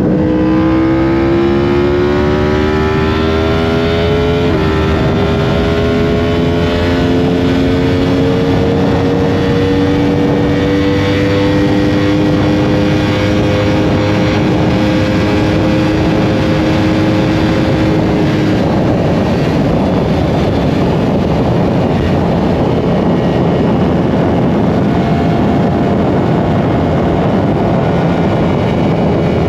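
Yamaha R1 inline-four sport bike engine accelerating hard, its pitch rising, with an upshift about four and a half seconds in. In the next gear the note climbs slowly, and for the last third it is buried under steady wind rush at high speed.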